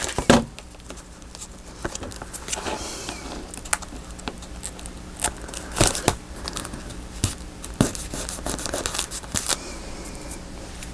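Paper and tape being handled: irregular rustling and crinkling with scattered sharp clicks and taps.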